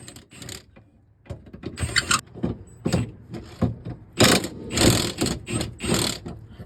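Ratchet wrench clicking in irregular runs as the cross member bolts are worked loose and backed out, with a few metal clanks, busiest in the second half.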